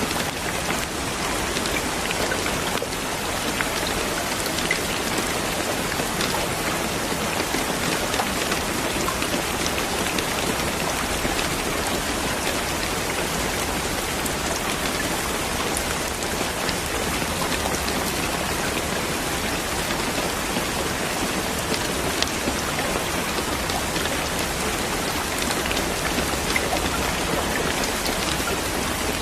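Steady heavy rain falling on a surface, a dense even hiss dotted with the small ticks of individual drops.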